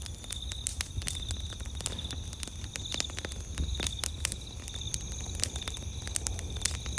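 Wood campfire crackling, with sharp irregular pops and snaps. Behind it, night insects trill in short repeated pulses.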